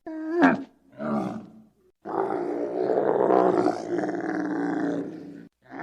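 A large wild animal calling with roaring calls: two short calls that drop in pitch, then one long rough call lasting about three and a half seconds.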